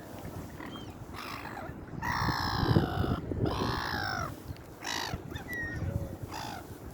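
Seagulls calling: a series of harsh calls, the two loudest and longest about two and three and a half seconds in, with shorter ones around them.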